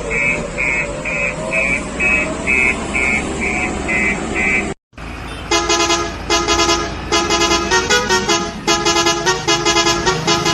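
A vehicle reversing beeper sounding about twice a second over a wavering whine. It breaks off just before halfway, and then a musical vehicle horn plays rapid repeated toots that jump between pitches like a tune.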